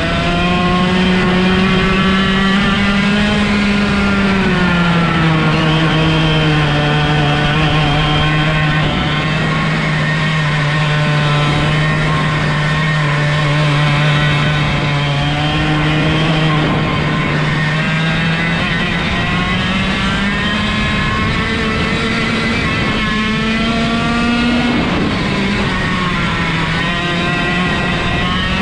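A 125cc two-stroke kart engine running hard at high revs. It is direct drive with no gearbox or clutch, so its pitch rises and falls with the kart's speed. It climbs early on, drops about four seconds in and holds steady for a while, then climbs again about two-thirds through, dipping briefly before rising near the end.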